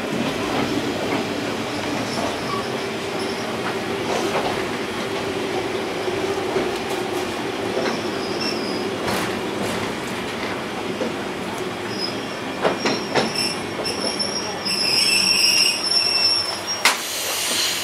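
Kominato Railway diesel railcar heard from inside the car as it slows into a station. Steady running noise with a low drone gives way to high-pitched brake squeal over the last few seconds, then a short hiss near the end as the train comes to a stop.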